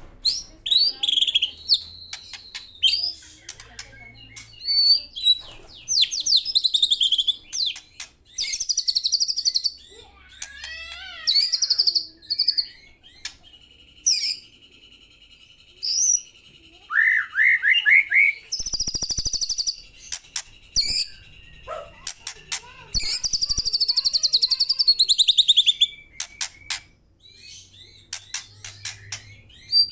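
Murai songbird (a Copsychus, of the shama and magpie-robin kind) singing in full voice, running through many varied phrases of rapid trills, clear whistles and chatters with short pauses between them.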